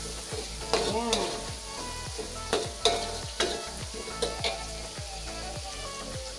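Garlic, ginger and galangal sizzling in hot oil in a wok as it is stir-fried. A spatula scrapes and knocks against the pan several times.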